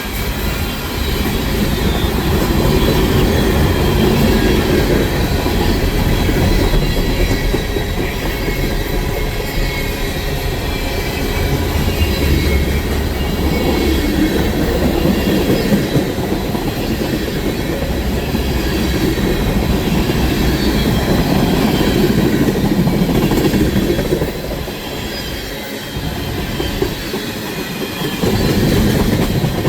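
Train cars rolling past on steel rails: a steady, loud rumble of wheels on track, with thin high squealing tones from the wheels over it. The sound eases briefly near the end, then builds again.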